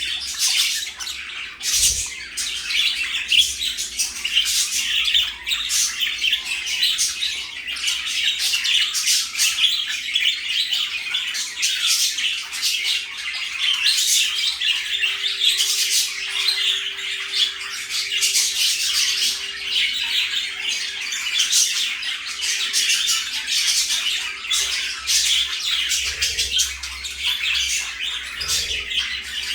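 Several budgerigars chattering together: a continuous stream of rapid, high-pitched chirps and warbles.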